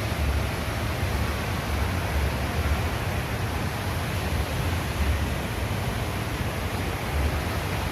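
Large indoor waterfall: a steady rush of water falling and splashing, with a low rumble underneath.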